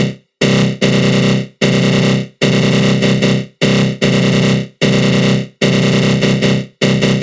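Synthesized attack growl sound effect: a harsh, buzzing synth growl with a flanger effect, coming in repeated loud blasts of about a second each, every blast fading and cutting off in a short gap before the next.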